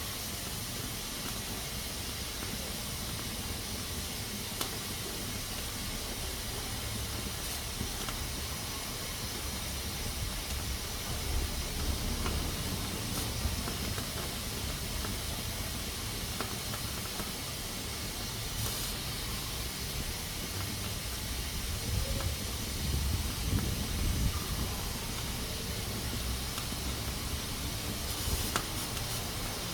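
Pressure cooker hissing steadily as steam escapes, with a few low rumbling swells underneath.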